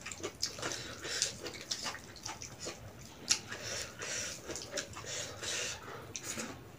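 Close-up eating sounds: irregular wet chewing and lip-smacking clicks as food is eaten by hand, with scattered soft clicks and rustles of fingers picking through food on the plate.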